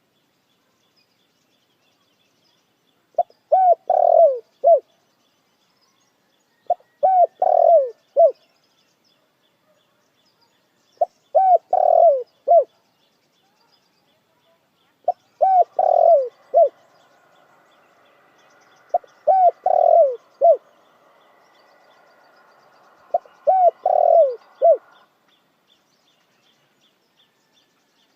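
Puter dekukur dove cooing: six short phrases of three or four falling coos, about one phrase every four seconds, with silent gaps between them.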